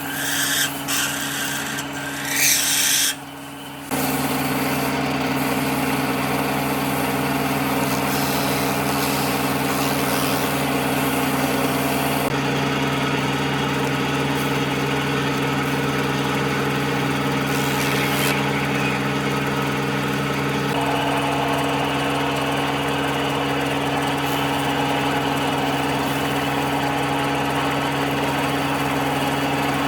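A power tool's motor starts about four seconds in and runs steadily at a constant pitch, after a few seconds of short, irregular working sounds.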